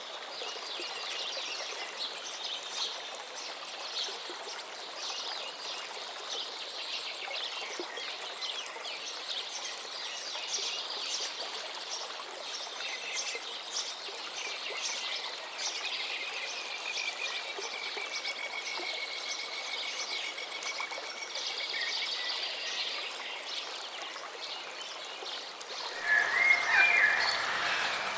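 Many small birds chirping and singing together over a steady hiss, with a long, even trill in the middle. Near the end a louder, closer call with lower tones cuts in.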